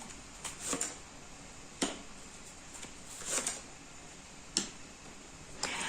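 Fortune-telling cards being drawn and laid down on a table: about five soft clicks and slides, spaced roughly a second apart, the longest near the middle.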